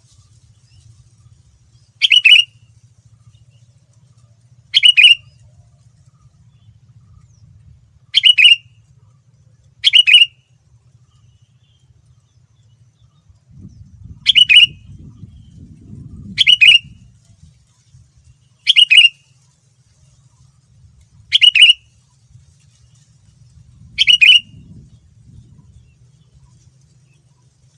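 Sooty-headed bulbul (kutilang) singing a short, loud phrase over and over, nine times at intervals of two to three seconds. A faint low hum runs underneath.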